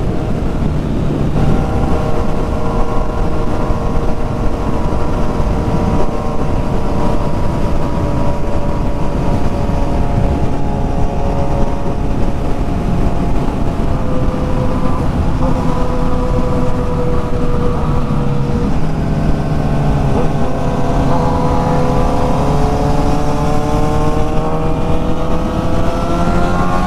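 Kawasaki Z900's inline-four engine under heavy wind noise, its note sinking slowly for most of the time, then rising steeply over the last few seconds as the bike accelerates.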